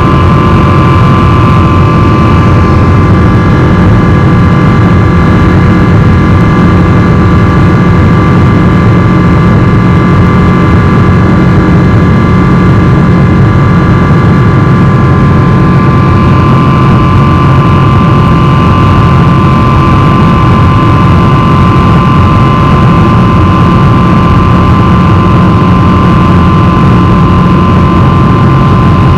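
Boeing 777-300 jet engines heard from inside the cabin: a loud, steady low drone with a constant whine on top. A higher whine fades out a few seconds in and comes back about halfway through.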